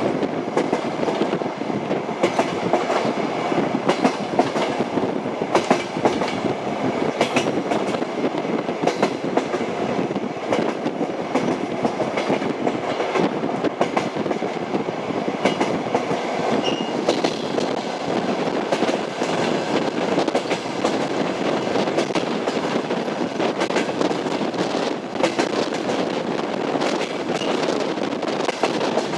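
Train running on rails: a steady rumble with the wheels clattering over the rail joints in frequent sharp clacks.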